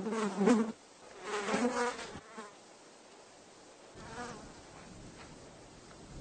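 Housefly buzzing in flight, its wingbeat drone wavering in pitch and swelling and fading as it passes close. There are two loud passes in the first two seconds, a lull, then a fainter buzz from about four seconds in.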